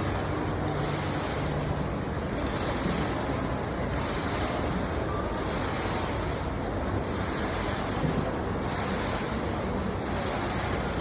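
Steady rush of water falling from a 15-metre indoor waterfall.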